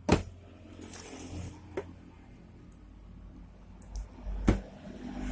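Two sharp knocks about four seconds apart, with light rustling and handling noise between them, as a small blanket is put into the plastic spin-dryer tub of a twin-tub washing machine.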